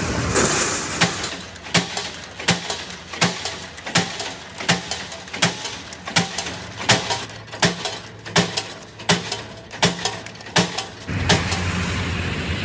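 A steady run of sharp knocks, about three every two seconds, with a steady machine noise falling away at the start and coming back near the end.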